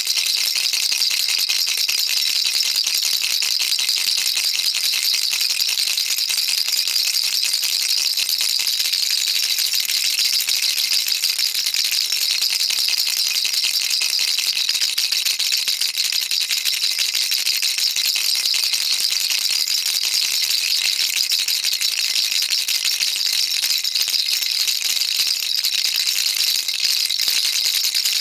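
Baby rattle shaken without a break: a fast, dense, even rattling of small beads inside the toy.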